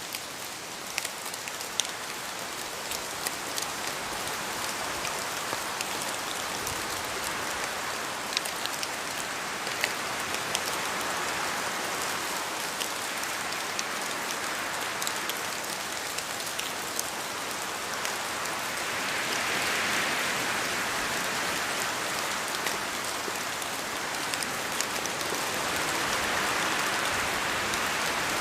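Steady rain in a forest, with many close drops ticking and pattering on leaves. The rain-and-wind noise swells louder twice, about two-thirds of the way through and again near the end.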